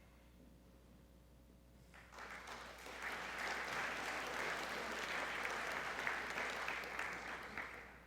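Audience clapping, starting about two seconds in, growing fuller a second later and stopping near the end.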